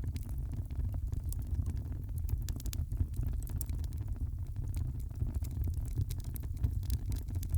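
Wood fire crackling in a fireplace: frequent small sharp pops and snaps over a steady low rumble of the flames.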